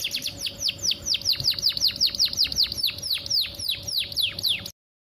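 Female canary calling, a rapid trill of downward-sweeping high notes that slows from about eight to about four notes a second, then cuts off suddenly near the end. It is a lure call played to prompt male canaries to sing.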